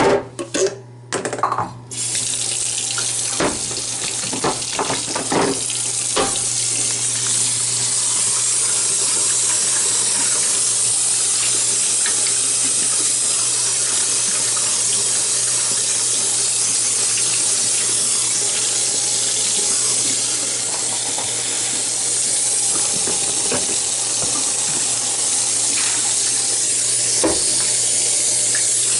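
Water running in a steady rush, starting about two seconds in after a few knocks and clatters, with a few more light knocks over the next few seconds.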